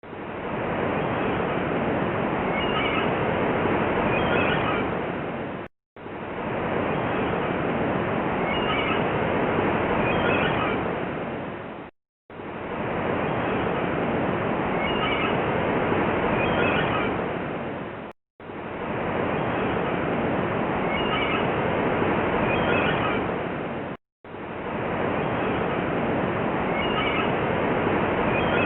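Surf washing steadily, with a few short seagull calls over it. It is a loop of about six seconds that repeats, with a brief silent gap between repeats.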